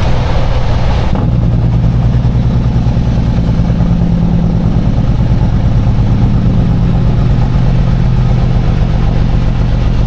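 Peterbilt semi truck's diesel engine running steadily under way, heard from inside the cab as a low, even drone; its note changes about a second in.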